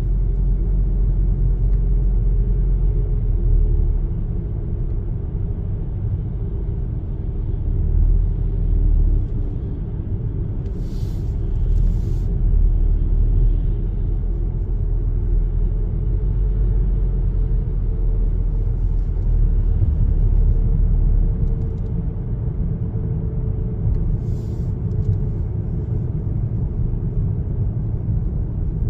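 Car driving, heard from inside: a steady low road and engine rumble, with a few brief hisses partway through.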